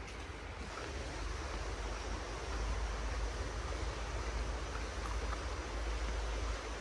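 Rainforest creek water rushing steadily, an even noise with a deep low rumble underneath.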